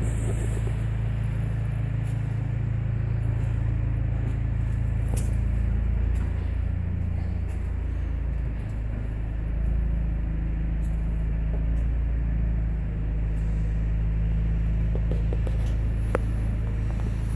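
A car engine running steadily at idle, with a low, even hum and a few faint clicks.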